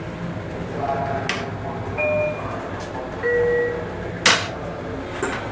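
Electronic two-note chime falling from a higher to a lower note, about two seconds in, over the steady rumble of an LIRR M7 electric railcar in motion. A sharp clack follows a second later, and there are lighter clicks earlier.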